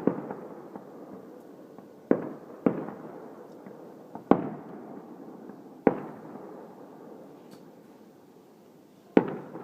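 Fireworks shells bursting: six sharp, irregularly spaced bangs, each trailing off in a long fading rumble. Two bangs come close together about two seconds in, and after a lull the last comes near the end.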